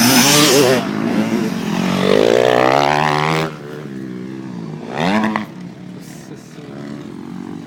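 Motocross motorcycle engine revving hard, its pitch climbing for over a second before it drops off sharply. A second short burst of revs follows about a second and a half later, then a quieter engine in the background.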